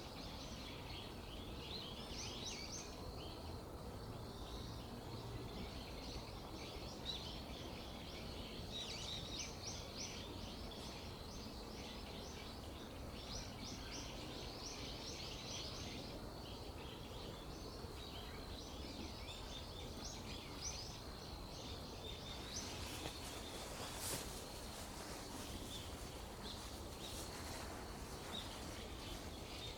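Small birds chirping over and over over a steady low outdoor rumble, with one sharp click about three-quarters of the way through.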